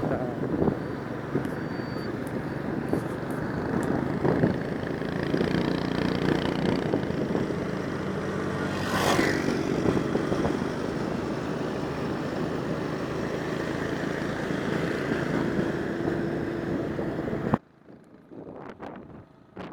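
Steady motor-vehicle engine and traffic noise that cuts off sharply near the end.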